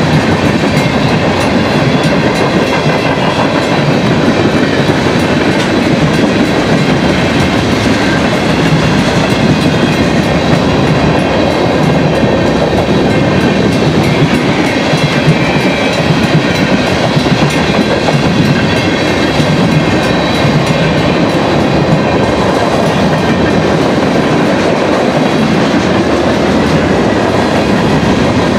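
Freight train cars (tank cars, boxcars and covered hoppers) rolling past close by at speed: a steady, loud, unbroken sound of steel wheels running on the rails.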